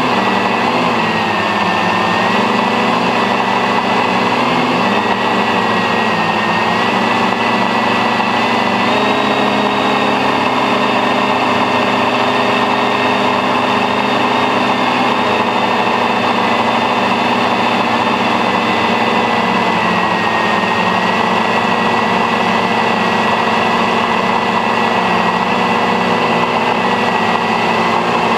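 Eight electric motors and propellers of a homemade stainless-steel octocopter running in flight, heard from a camera mounted on board: a loud, steady whine and buzz whose pitch shifts slightly up and down with throttle.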